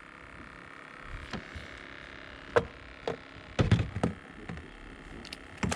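A series of scattered light knocks and taps, some in quick pairs, over a steady background hiss.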